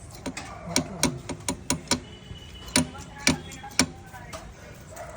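A run of sharp knocks or taps, about ten irregular strikes over some three seconds, over a steady low hum.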